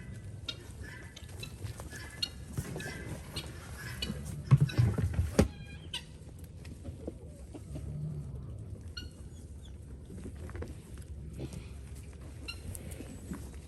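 Farmyard livestock calling in short, scattered high calls, with a few low sounds. A burst of loud knocks and clatter comes about four and a half to five and a half seconds in.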